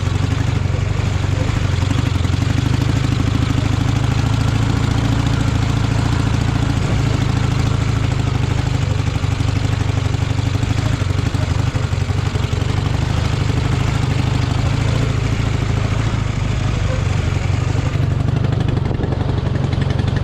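A vehicle engine runs steadily at a constant pace while riding over rough off-road ground. The higher hiss drops away about two seconds before the end.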